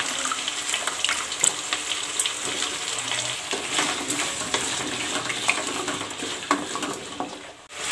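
Diced yellow pumpkin and onions sizzling in hot oil in a kadai, stirred with a wooden spatula that scrapes and taps against the pan now and then. The sizzle drops away briefly near the end.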